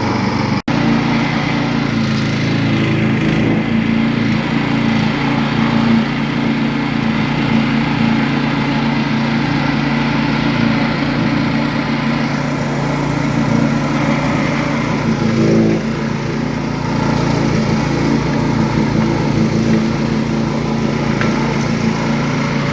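Small engine of a coconut husk peeling machine running steadily under load, with a brief dropout about half a second in.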